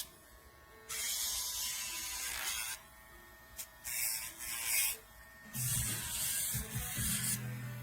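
Small electric pet nail grinder running, with three stretches of louder grinding hiss as the rotating head is pressed to the nail, and a low hum joining in the last couple of seconds.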